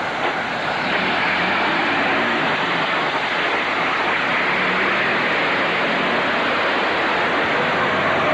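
Steady hiss of street traffic, car tyres on a wet road.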